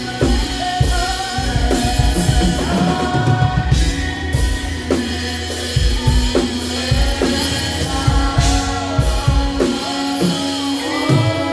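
Live gospel praise band playing, with a drum kit keeping a steady beat of bass drum, snare and cymbals under bass and voices singing.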